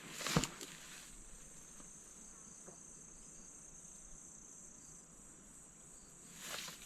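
Steady high-pitched drone of insects, crickets-like, running without pause. Loud rustling steps through brush in the first second and again near the end.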